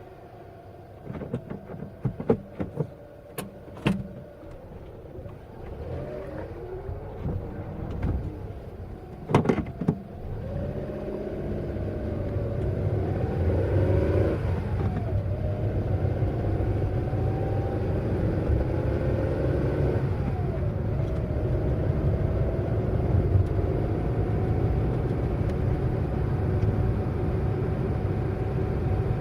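A car accelerating: the engine note rises and drops back at two gear changes, about halfway through and again a few seconds later, then holds steady over a low road rumble. Sharp clicks and knocks come before it, in the first third.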